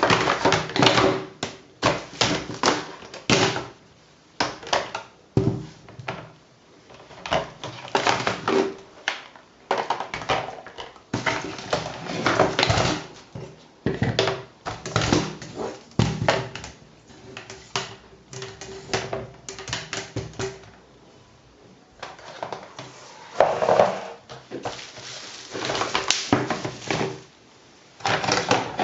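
Hard plastic toy playhouse parts being handled: repeated clicking, clacking and knocking in quick bunches, with short pauses between.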